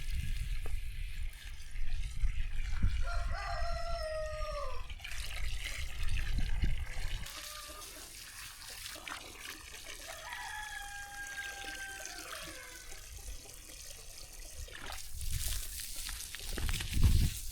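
A rooster crows twice, about three seconds in and again about ten seconds in, each crow ending on a falling note. Water trickles underneath, and a low rumble fills the first half.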